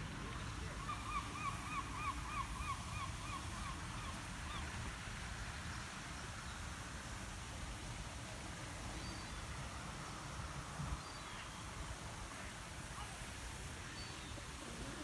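A bird calling a quick run of about ten notes, roughly three a second, that stops about four seconds in, over a steady low background rumble.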